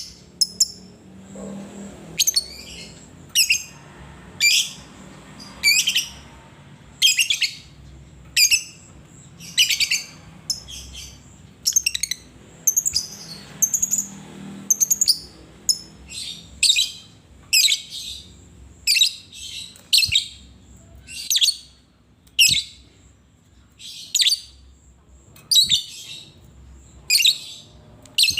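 Lovebird chirping: short, high, sharp chirps repeated about once a second, some in quick pairs.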